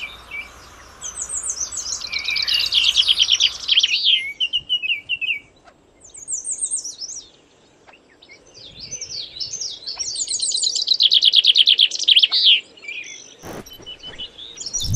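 A songbird singing in three bursts of fast, repeated chirping notes that sweep down in pitch, with short pauses between the phrases.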